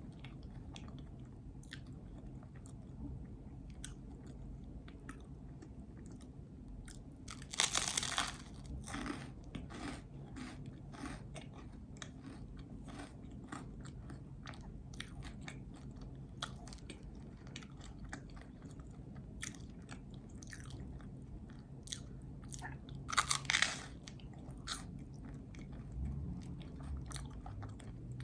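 Close-miked chewing of a peanut butter and jelly sandwich: steady soft mouth clicks, with two louder bites, one about eight seconds in and one near twenty-three seconds. A low steady hum runs underneath.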